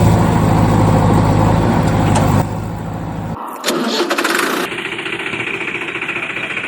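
An engine running steadily, the sound of a tractor. After about two and a half seconds it drops away, and a thinner, higher engine sound without the deep part continues.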